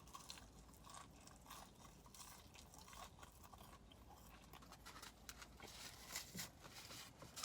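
Faint eating sounds close to the microphone: soft chewing and crunching with a scatter of small clicks.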